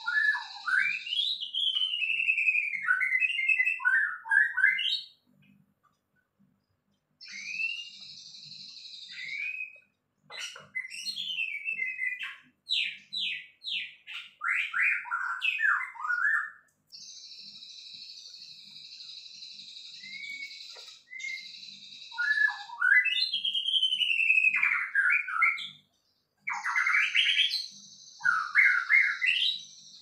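A songbird singing loud, varied phrases of sweeping whistles and rapid trills, several seconds each with short pauses between. A steady high buzz fills some of the gaps between phrases.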